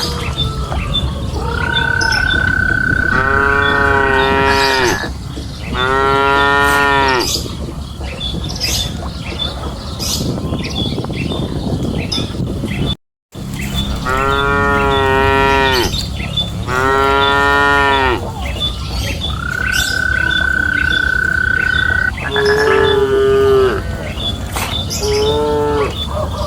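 Cattle mooing: two long, drawn-out moos one after the other, then, after a brief cutout midway, two more, with shorter calls near the end.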